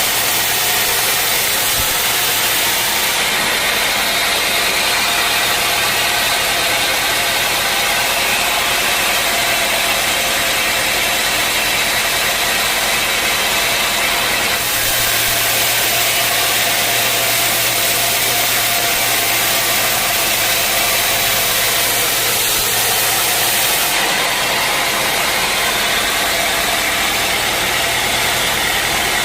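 Sawmill machinery running steadily with a loud, even mechanical noise and low hum; the hiss shifts a few seconds in, about halfway, and again near the end.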